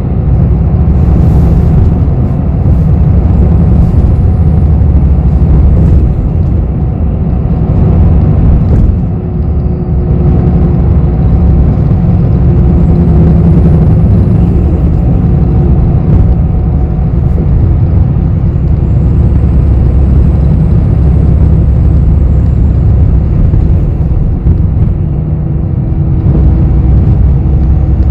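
Interior of a city bus while it is driving: a steady low rumble of engine and road noise, with faint steady whining tones above it. Now and then a faint high tone rises and falls.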